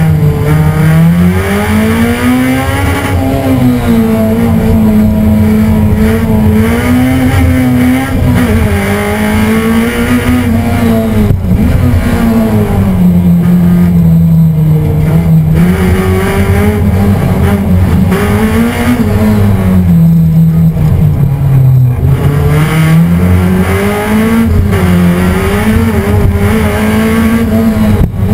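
Race car engine at full effort, heard from inside the stripped, roll-caged cabin, its note rising under acceleration and dropping off sharply, over and over through the lap.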